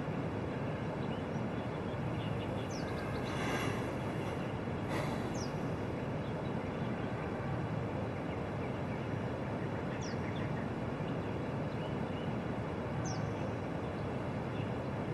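Steady background noise like outdoor ambience, with a few brief, faint high chirps scattered through it.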